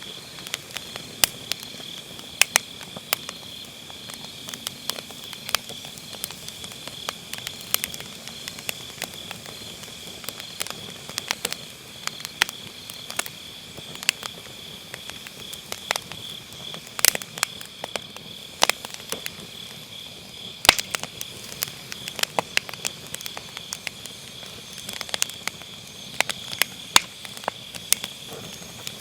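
Firewood burning with irregular crackles and sharp pops scattered throughout, over the steady high chirping of autumn crickets.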